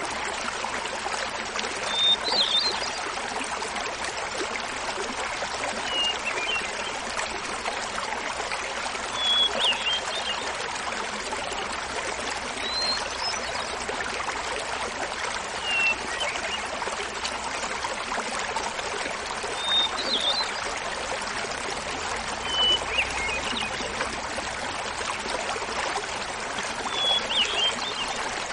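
Small mountain waterfall splashing in a steady rush, with a hermit thrush singing over it: eight short flute-like phrases, each a held opening note followed by a quick flourish, repeated every three to four seconds at changing pitches.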